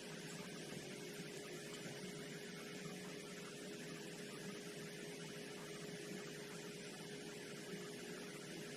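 Faint steady hum with one constant tone over a low hiss, with no tool or impact sounds: background room tone.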